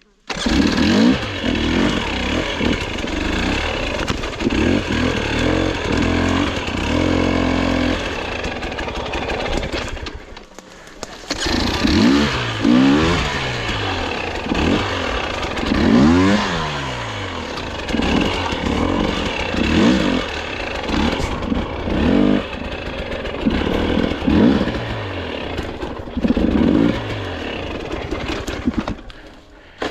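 Dirt bike engine revving up and down in repeated short bursts, with a brief lull about ten seconds in and another just before the end.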